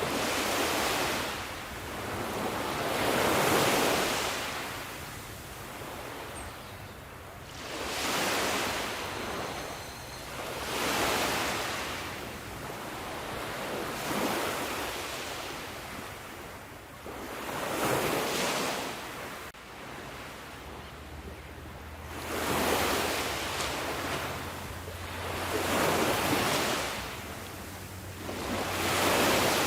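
Sea waves surging in and washing back, each wave swelling and fading roughly every three to four seconds.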